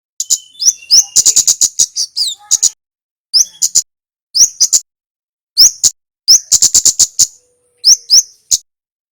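Male kemade (kemlade merah) songbird singing: loud runs of rapid, sharp high-pitched chips, mixed with quick upward-swept notes, in short bursts with brief pauses between them.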